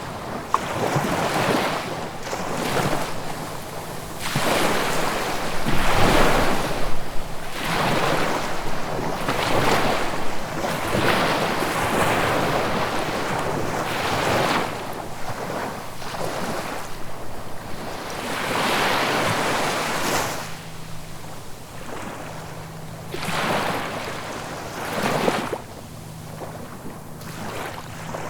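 Ocean waves breaking and washing on the shore, surging and falling back every one to two seconds. The surges are strongest in the first third and quieter after about 21 s, with a faint steady low hum underneath.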